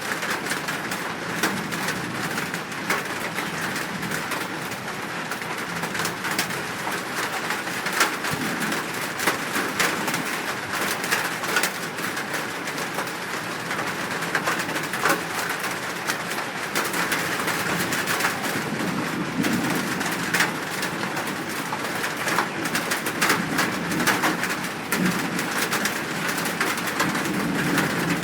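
Birds calling with low cooing notes over a steady hiss scattered with short ticks.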